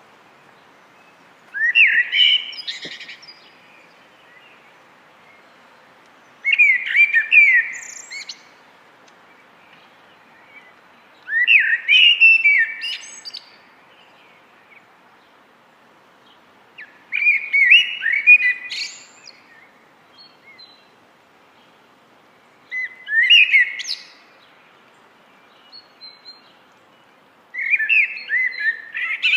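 Common blackbird singing: six warbled, whistled phrases about five seconds apart, each ending in a brief high twitter.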